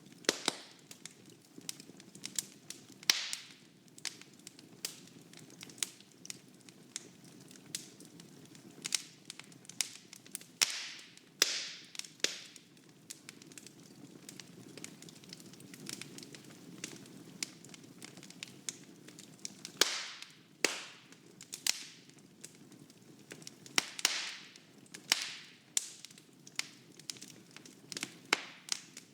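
Wood fire burning in a fireplace: irregular sharp cracks and pops over a steady soft rush of flames, with a few louder snaps now and then.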